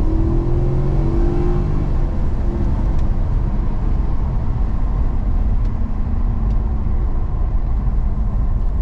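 Car engine and tyre-road rumble heard from inside the cabin during a track lap. The engine note rises as the car accelerates in the first second or two, then settles into a steady drone.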